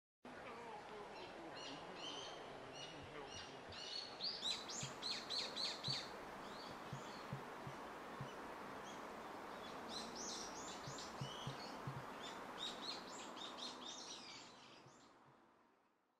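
Songbirds chirping and singing over a steady outdoor background hiss, with quick runs of notes now and then. The sound fades out near the end.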